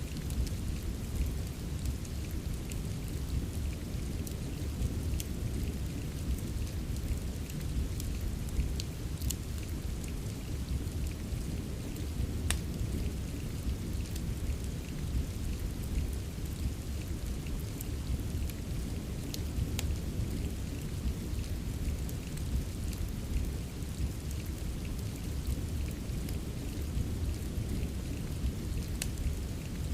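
Steady rain ambience with a deep, even low rumble, mixed with scattered sharp crackles from a wood fire in a fireplace.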